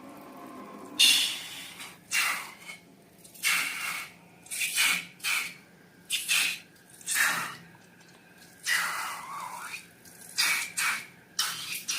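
Slime being worked by hand: about a dozen short, wet, sticky squelches at an uneven pace of roughly one a second.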